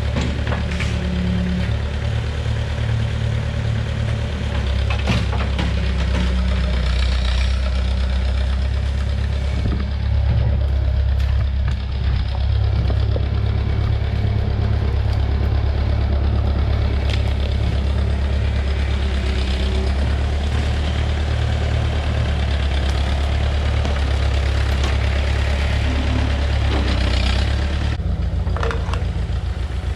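Tractor engine running steadily, with a few scattered clicks and knocks; its note shifts about two seconds before the end.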